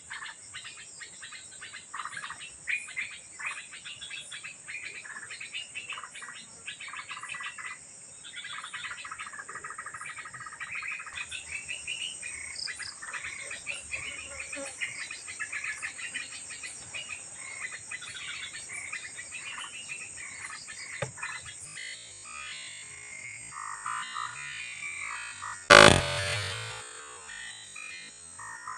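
Birds chirping and calling over a steady high insect drone, with one loud sharp bang about 26 seconds in that rings off over a second.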